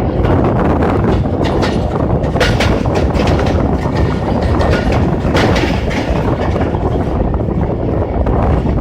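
Fareed Express passenger train running on the track: a loud, steady rumble of wheels on rails with irregular clacks over the rail joints.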